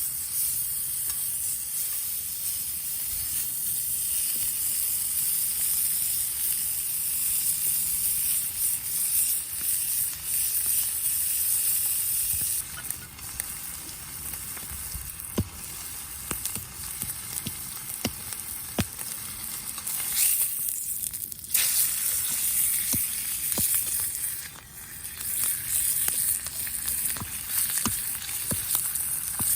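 Food sizzling as it fries in a pan, a steady hiss with scattered sharp clicks.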